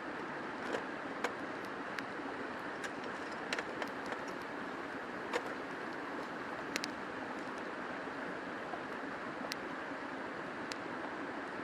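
River water rushing steadily past the bank, with scattered sharp clicks and pops at irregular moments.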